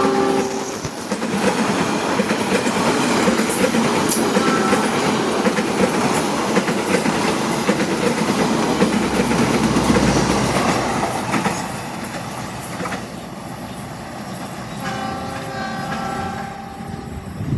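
Train hauled by a CC206 diesel-electric locomotive passing, with a loud rush of rumble and wheel clatter that eases off after about twelve seconds. A short horn blast at the start, and a quieter horn sounds again for a couple of seconds near the end.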